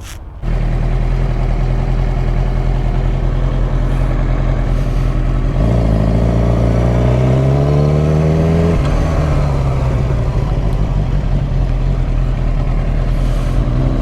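Motorcycle engine running loud and steady, coming in abruptly at the start; about five seconds in it revs up in one rising pull, drops sharply at a gear change about three seconds later, then runs steady and starts rising again near the end.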